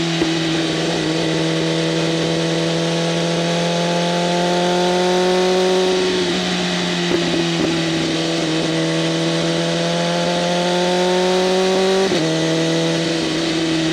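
BMW M1000RR's inline-four engine through an SC-Project CRT exhaust with open flaps, pulling under steady acceleration, its pitch climbing slowly. The pitch drops sharply at two upshifts, about six seconds in and again near the end.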